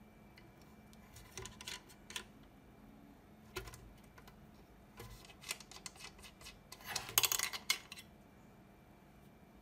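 Light clicking and clattering of small hard objects being handled, in scattered taps and then a denser rattle about seven seconds in.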